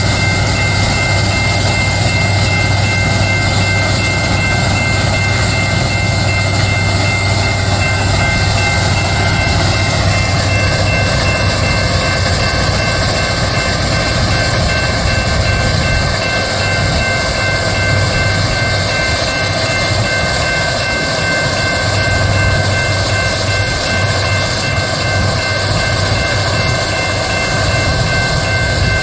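Loram SBC-20 shoulder ballast cleaner working: heavy rail machinery running with a steady low drone and several high whines. The whines drop slightly in pitch about ten seconds in.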